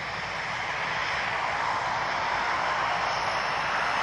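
Airliner's engines on landing approach: a steady rushing engine noise with a faint high whine, growing gradually louder as the plane comes in.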